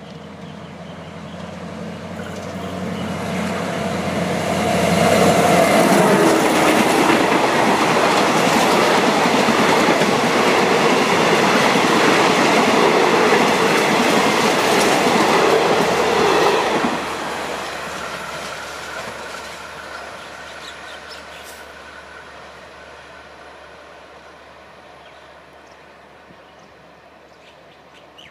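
A passenger train hauled by Alsthom diesel-electric locomotive 4116 passes at speed. The diesel engine's hum grows as it approaches, then the coaches' wheels clatter past loudly for about ten seconds. The sound drops sharply once the last coach has gone by and fades slowly as the train runs away.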